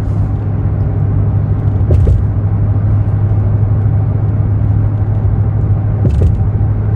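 Steady low rumble of a truck driving, heard from inside the cab, with a couple of faint knocks.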